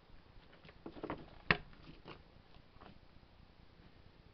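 Metal engine parts being handled, giving a few scattered light clicks and knocks, with one sharper click about a second and a half in.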